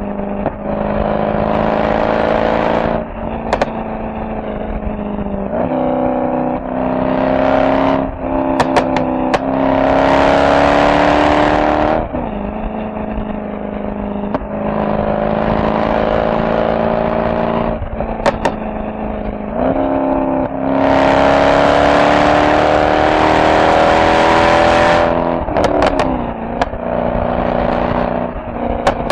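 Mercedes-AMG SL63's V8 exhaust, heard while driving. It accelerates several times, its note rising and growing louder, and eases back to a steady cruise in between. A few sharp exhaust pops come as it lifts off.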